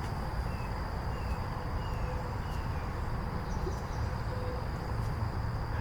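Outdoor ambience: a steady high-pitched insect drone over a low rumble, with a few faint short chirps and hoot-like notes.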